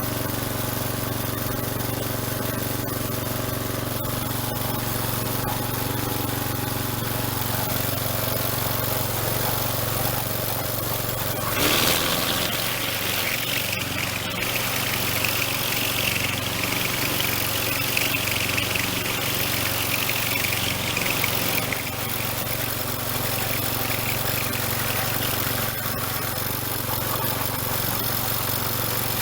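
Small two-stroke string trimmer engine running steadily. About twelve seconds in, the sound shifts and a higher hiss joins it.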